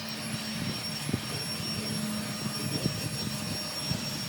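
A motor running steadily with a low hum and a thin high whine, with a few light knocks.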